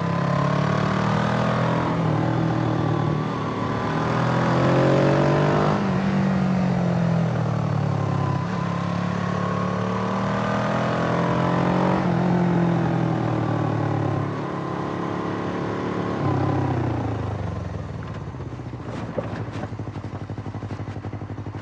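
Suzuki GS500E's air-cooled parallel-twin engine running under load, its pitch climbing and dropping back sharply several times, as with revs rising and falling between gear changes. Near the end it settles lower and quieter, with a few sharp clicks.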